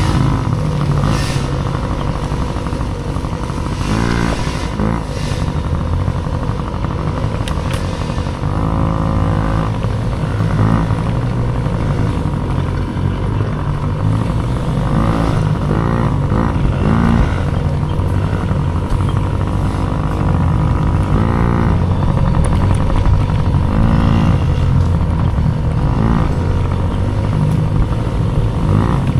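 Small dirt bike engine ridden hard, its revs rising and falling over and over as the throttle is worked through the course.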